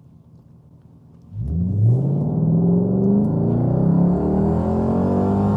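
Jaguar XK8's V8 engine and exhaust pulling away from a quiet idle into full-throttle acceleration about a second and a half in, the engine note climbing steadily as the revs rise.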